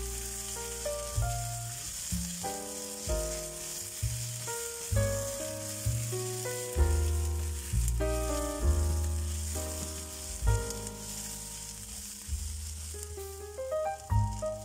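Sliced onions sizzling in a frying pan as they are stirred, with background music of held notes over a bass line. The sizzle thins near the end.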